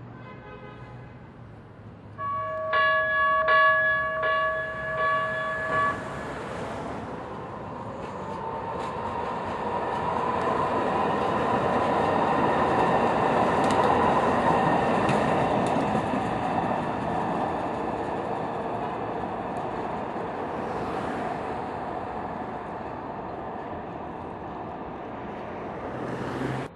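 Light rail train sounding its horn in several short blasts. The train then runs through, its wheel and motor noise swelling with a faint whine and slowly fading away.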